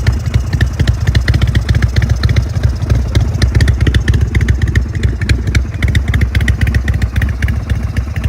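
Indian Chieftain's 116-cubic-inch big-bore V-twin idling, a loud, steady, rapid pulsing rumble.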